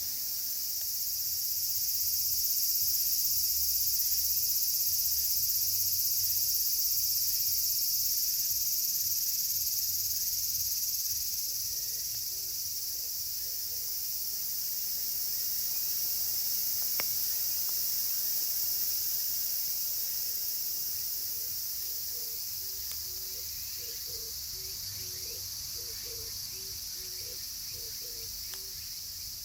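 Dense chorus of cicadas, higurashi (evening cicadas) among them, a steady high shrilling that swells over the first few seconds and then slowly eases off. A wood fire burns beneath it, with one sharp crackle about halfway through.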